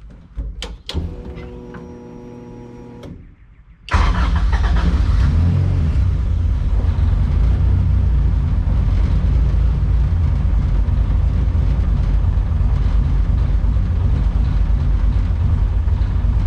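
A couple of clicks and a steady hum lasting about two seconds, then a high-compression B20VTEC four-cylinder engine starts abruptly about four seconds in and keeps running steadily. The engine still needs fine tuning and does not yet run right.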